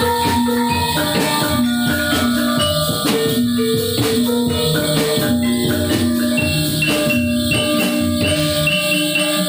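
Music for a Topeng Ireng dance: drums and tuned percussion playing a steady, rhythmic pattern.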